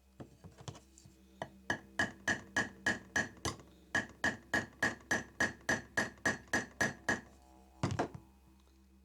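Small hammer tapping on metal in a steady run of about three strikes a second, each with a short ringing tone, then a pause and two final taps near the end; steady background music runs underneath.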